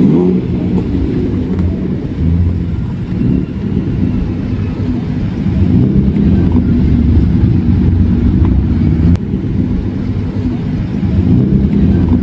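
BMW M54B30 3.0-litre straight-six running steadily at low revs as the car rolls along, heard from inside the cabin.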